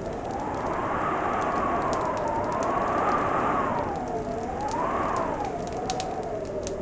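Crackling fireplace: scattered sharp pops and snaps over a steady hiss. Under it runs a wavering howl that slowly rises and falls in pitch.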